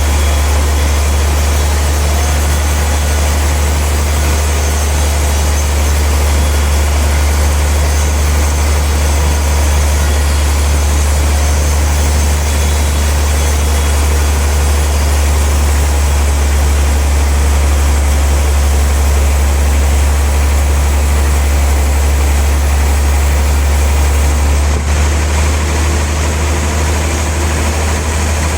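Large sawmill machinery running steadily with a loud, constant low drone.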